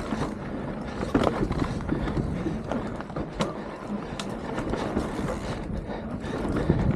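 Mountain bike rolling fast over a rough trail: a steady rush of tyre and wind noise, with irregular rattles and clicks from the frame and drivetrain as it hits bumps.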